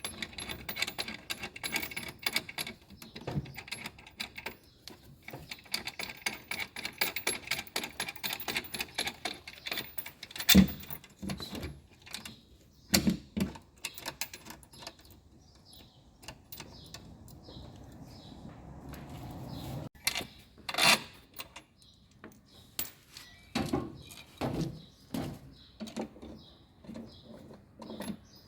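Scattered clicks, knocks and rattles of tools and metal and plastic parts being handled while a washing-machine motor stator is refitted and fastened. A few sharper knocks come about ten, thirteen and twenty-one seconds in.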